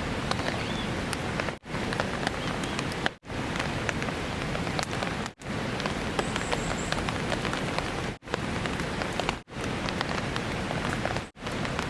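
Steady rain falling, with scattered small drops. It cuts out abruptly for a moment about six times.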